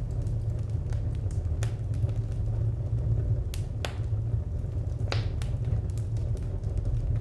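Wood fire burning: a steady low rumble under scattered crackles, with a few sharper pops.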